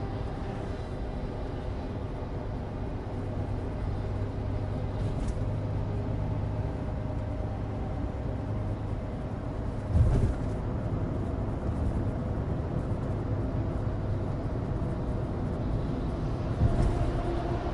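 Suzuki Alto Turbo RS heard from inside the cabin while driving: its 660 cc turbocharged three-cylinder runs steadily under the noise of studless winter tyres on a dry road. Two sudden thumps come through, one about ten seconds in and one near the end.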